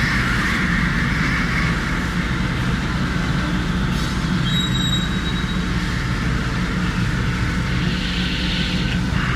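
Harsh noise music: a dense, steady wall of noise over a low rumble, with a thin high tone held for about half a second midway through.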